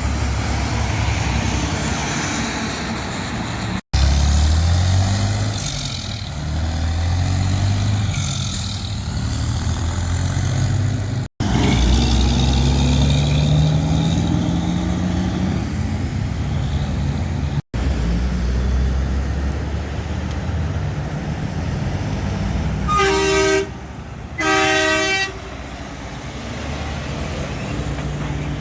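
Heavy trucks driving past, their engines rising in pitch through gear changes, heard as several separate pass-bys that each cut off abruptly. Near the end, a truck horn sounds two blasts of about a second each.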